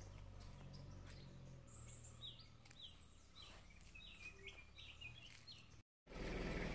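Small birds chirping outdoors, with short downward-sliding calls repeating every second or so over a faint low hum. Near the end the sound drops out for a moment and a louder rush of noise begins.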